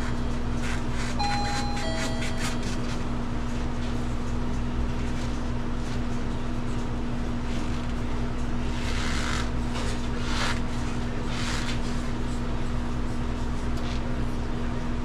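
Steady mechanical hum with one strong low tone. A two-note falling electronic chime sounds about a second in, and a few short hisses come around ten seconds in.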